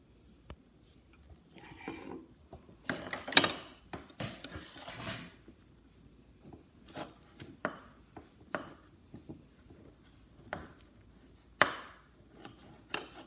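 Eating and tableware handling at a table: a few seconds of rustling and scraping, then scattered light taps and clicks.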